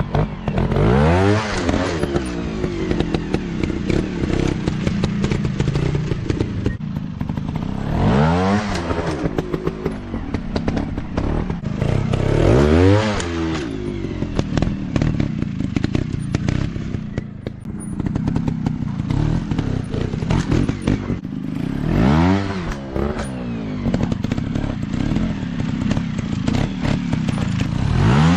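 Dirt bike engines running, with the engine note climbing and dropping back in about five separate rev bursts, plus clattering and crackle.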